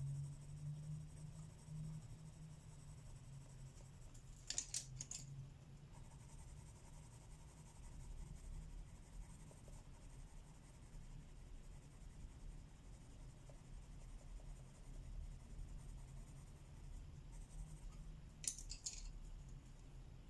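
Colored pencil scratching faintly on paper, with two short runs of quick strokes, one a few seconds in and one near the end, over a low steady hum.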